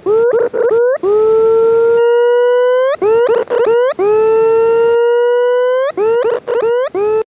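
Synthesized tones from the Desmos graphing calculator: a long, slowly rising electronic tone that sweeps sharply upward at its end, alternating with bursts of quick upward chirps, in a siren-like repeating pattern. It cuts off suddenly near the end.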